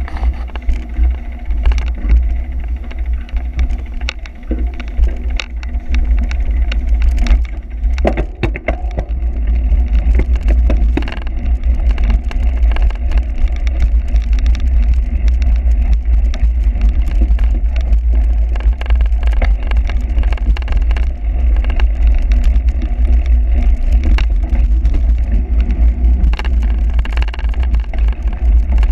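Heavy wind rumble on the microphone of a camera riding along on a cyclocross bike, with frequent rattles and knocks from the bike jolting over rough ground.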